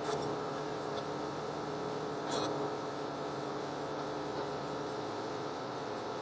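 Steady hum and hiss of a car cabin, heard through a phone's microphone, with two short hissy sounds, one at the start and one about two seconds in.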